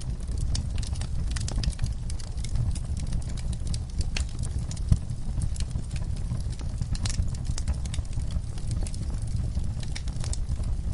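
Wood fire burning in a fireplace: irregular sharp crackles and pops over a steady low rumble of the flames, with one louder pop about halfway through.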